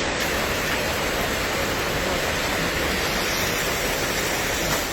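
Steady rush of water from torrential rain and flooding, an even hiss with no breaks.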